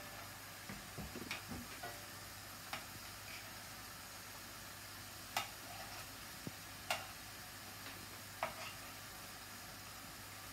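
Ol (elephant foot yam) kofta frying in a pan with a faint steady sizzle, while a metal spoon turning them clinks sharply against the pan several times.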